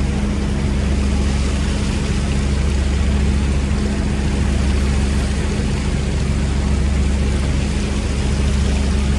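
A fishing boat's engine running steadily, a constant low hum, with a haze of water and wind noise over it.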